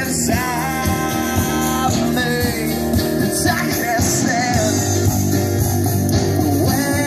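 Live rock band playing, with guitar and a singing voice.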